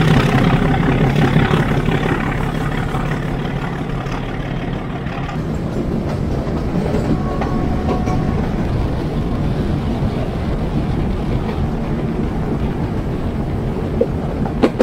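Metre-gauge passenger train running along the line: a steady rumble of wheels on rail with clickety-clack, a little louder for the first few seconds.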